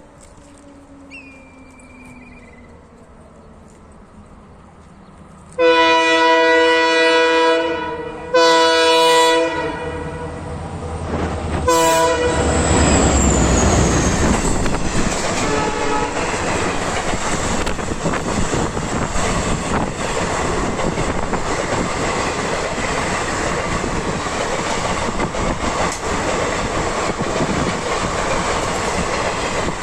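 WDP4D diesel locomotive horn sounding two long blasts about five and eight seconds in, then a short one. The train then passes at speed with a steady loud rumble of wheels clattering over the rail joints.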